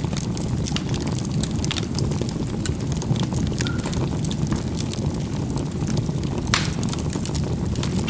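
Charcoal burning in a fireplace: a steady low rumble of the fire with scattered crackles and pops, one louder pop about six and a half seconds in.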